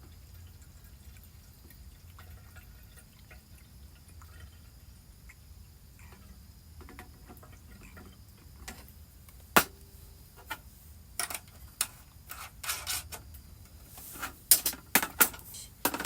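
Scattered sharp clicks and knocks of small objects being handled, starting about halfway through and coming thicker near the end, after a quiet stretch.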